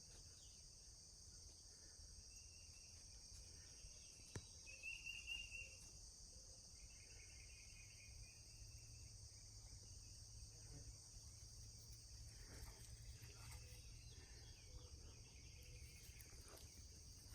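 Faint, steady high-pitched chorus of crickets, with a few brief bird calls about two, five and seven seconds in.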